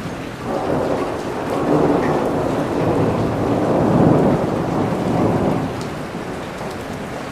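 Thunder rumbling over steady rain: a long roll that builds from about half a second in, peaks around four seconds, and dies away near the end.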